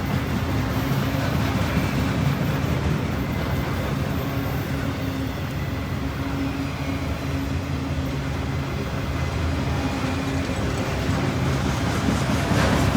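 CSX freight train passing, a diesel locomotive's engine running steadily over rolling wheel and car noise.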